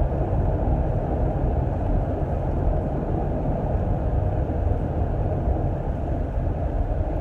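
Steady low rumbling noise of a moving vehicle, with no sudden events.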